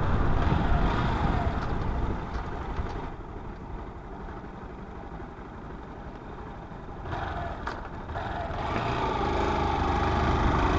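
A motor vehicle's engine running. It fades over the first few seconds, stays low, then grows louder again over the last few seconds.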